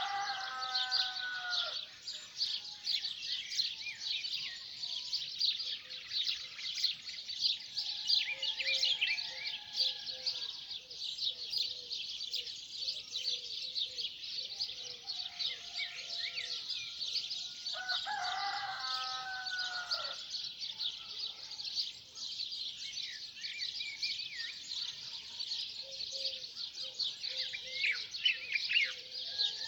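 A dawn chorus of many small birds chirping and singing without pause. Over it a rooster crows twice: once at the start and again about 18 seconds in.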